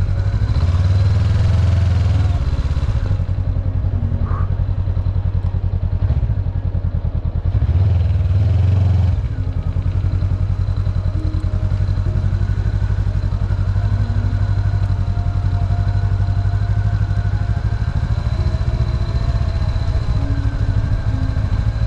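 Motorbike engine running under way, its steady firing pulse opening up louder for a couple of seconds near the start and again about eight seconds in.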